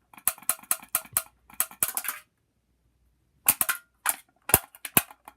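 A bent can squeezed and flexed by hand, giving quick runs of sharp metallic pops and snaps meant to mimic a sports car's exhaust crackle. There are about ten pops, a short pause, then about six more.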